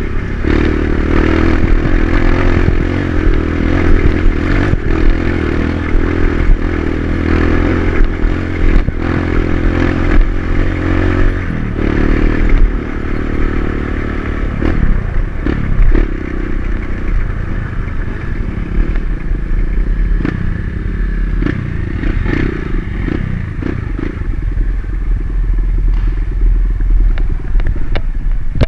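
Dirt bike engine running under load on an off-road trail, the pitch shifting as the throttle changes near the middle. Frequent clattering knocks throughout, from the bike jolting over rough ground.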